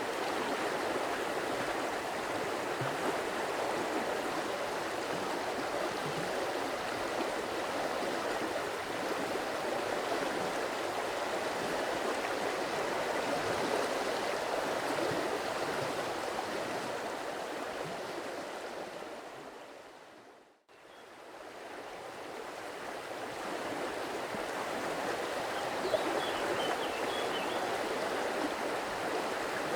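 Stream water flowing steadily, a continuous rushing burble. About two-thirds of the way through it fades out to silence and then fades back in.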